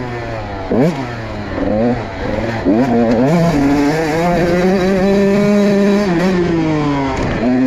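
Motorcycle engine revving up and down through the gears with quick rises and drops in pitch, then holding a steady high note for a few seconds before the revs fall away near the end. The rider shifts, by his own account, without using the clutch.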